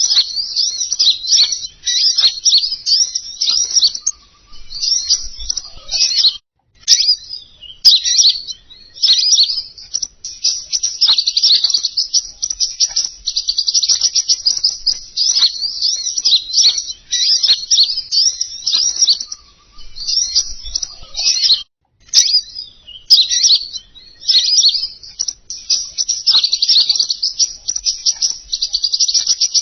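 Bird-lure recording of king konin song: dense, rapid, high-pitched chirping and trilling in phrases broken by short pauses, with a few sharp clicks.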